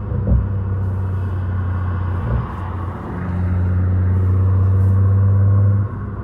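Straight-piped, catless BMW 540i B58 turbo inline-six exhaust droning at steady revs. The drone swells louder from about three seconds in and drops off sharply just before the end, with two brief knocks in the first few seconds.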